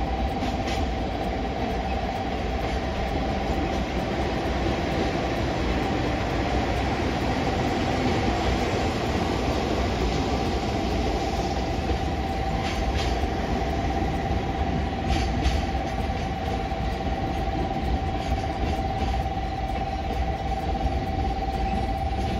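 Electric train running at a steady speed: an even rumble with a constant whine held at one pitch, and a few faint clicks.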